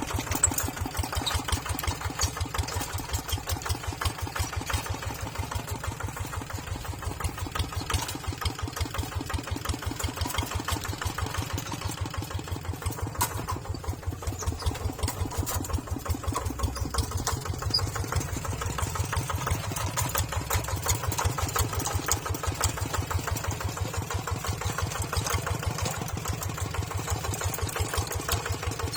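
Tractor engine running steadily, its firing beats coming fast and even.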